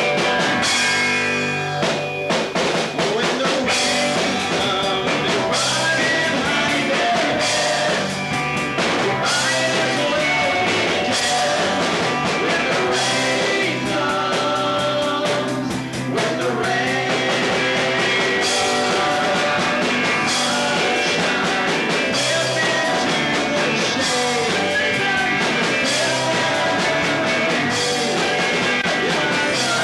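Rock band playing live with drums, guitar and singing.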